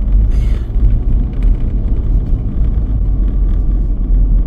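Steady low rumble of a moving vehicle's road and engine noise inside the cabin while driving, with a brief hiss about half a second in.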